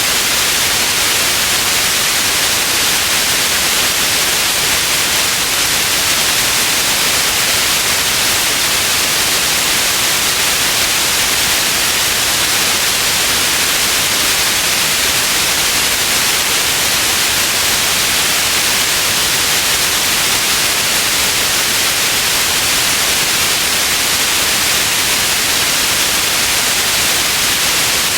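Steady synthetic white noise: an even, unchanging hiss, brightest in the upper range.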